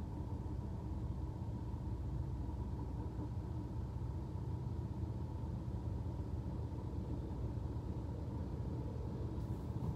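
Steady low rumble inside the cabin of a car standing still, its engine idling.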